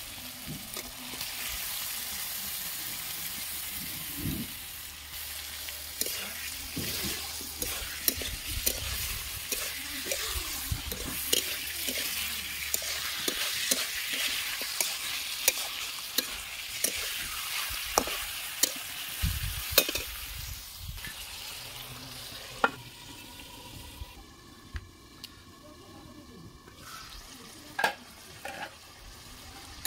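Chicken pieces sizzling in hot oil and spice paste in a steel kadai, stirred with a metal spatula that clicks and scrapes against the pan. The sizzle fades noticeably over the last several seconds.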